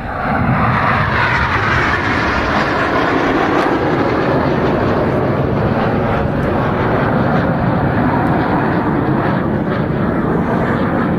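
Red Arrows BAE Hawk T1 jets making a fast, low pass in front of the crowd. Jet noise surges up sharply right at the start and stays loud, its pitch falling as the aircraft go by and draw away.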